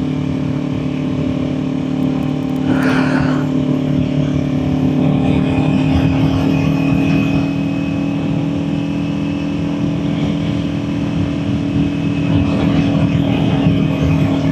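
Kawasaki Ninja 400's parallel-twin engine running at a steady cruising speed, its pitch holding constant, under a rush of wind and road noise.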